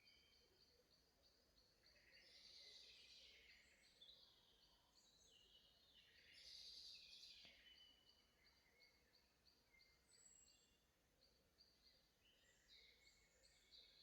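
Faint forest birdsong: several songbirds singing, with louder song phrases about two seconds in and again around six to seven seconds, over a steady run of short high notes repeating about four times a second.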